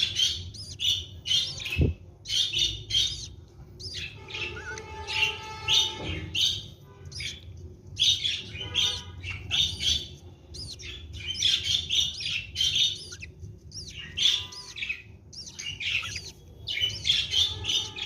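Budgerigars chirping and chattering in quick, overlapping bursts, with a longer, more drawn-out call about four to six seconds in. A single low thump near two seconds.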